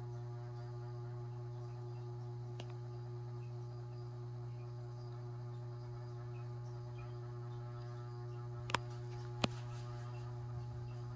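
Kitchen ceiling fan running up to speed, its motor giving a steady hum with a slight wavering in the tone. Two sharp clicks a little under a second apart come near the end.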